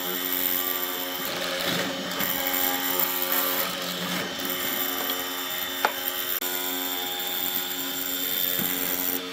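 Electric power tool running steadily with an even motor whine, and one sharp click about six seconds in.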